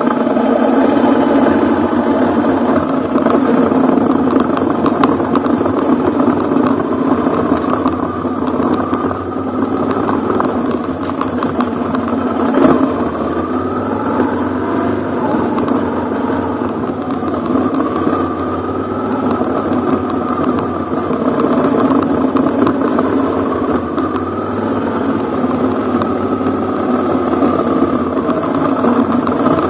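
Ducati Hypermotard's V-twin engine running at low to moderate revs on a ride over a dirt forest road, the pitch rising and falling a little with the throttle. Scattered knocks and rattles come through, with one sharp knock about twelve seconds in.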